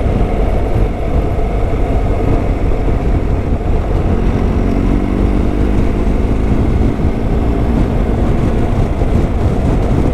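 Motorcycle riding at road speed: the engine running steadily under a heavy low rumble of wind on the rider's microphone.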